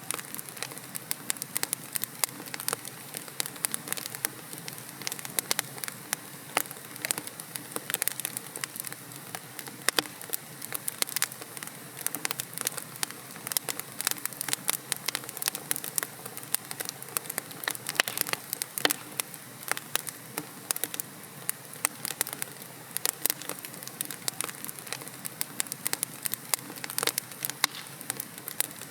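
Wood fire in a fireplace: logs burning with a steady low hiss and many sharp, irregular crackles and pops.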